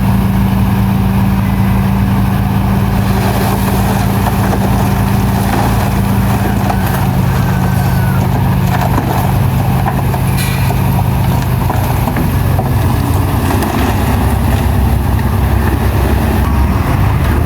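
Heavy-equipment diesel engine running loud and steady, its pitch stepping down about seven seconds in, again near twelve seconds, and lower still near fifteen seconds as it slows. A short sharp click about ten seconds in.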